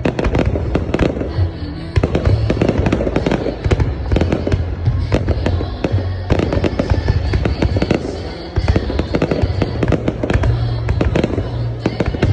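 Fireworks going off in a dense, rapid run of bangs and crackles, with music with a low bass line playing beneath them.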